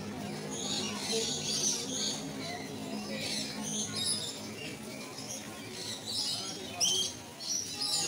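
Several birds chirping and squawking, short high calls overlapping one after another, with a few louder sharp calls near the end.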